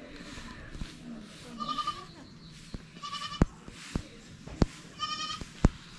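An animal bleating in three short, quavering calls, with several sharp knocks in between, the loudest sounds here.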